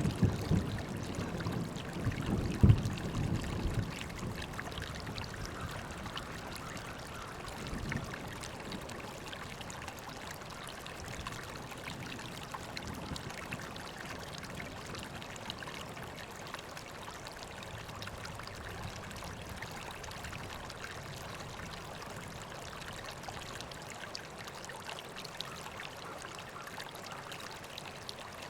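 River water flowing and trickling steadily. Louder low rumbling with a sharp jolt about two and a half seconds in dies away after about four seconds.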